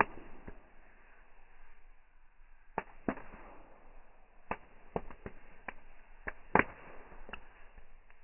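Bonfire crackling: irregular sharp pops and cracks, about a dozen, over a faint hiss, the loudest right at the start and about six and a half seconds in.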